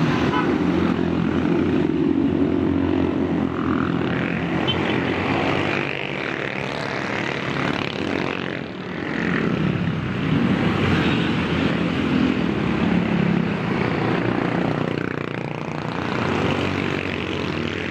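Motorcycle engines running while riding, their pitch rising and falling with the throttle, over road and wind noise.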